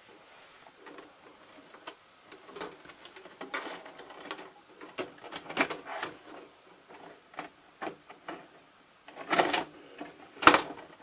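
VCR fast-forwarding a VHS tape: irregular mechanical clicking and rattling from the tape transport, with two louder clunks near the end.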